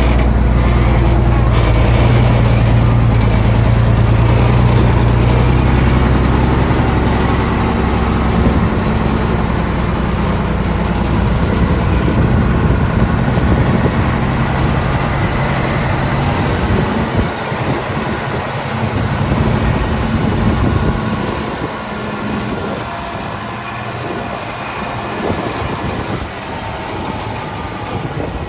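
Heavy diesel construction machinery running steadily, a deep engine hum; after about 17 seconds the lowest part of the hum drops away and the sound gets somewhat quieter. A short hiss about 8 seconds in.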